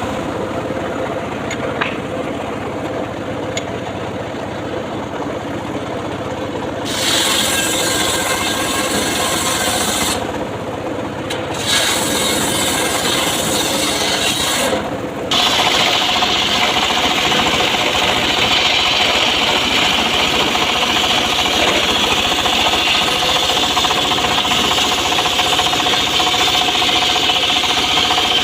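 Homemade circular saw cutting mahogany wood, running continuously. Its sound shifts in loudness and tone several times as the blade works through the cut, and it settles into a steady whine about halfway through.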